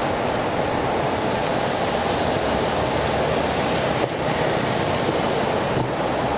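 Steady rushing noise of a bicycle ride in the rain: wind on the microphone and tyres on wet pavement.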